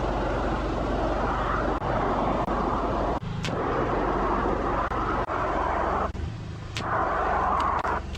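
A steady engine hum with a rushing hiss over it; the hiss drops out briefly about three seconds in and again about six seconds in while the hum carries on.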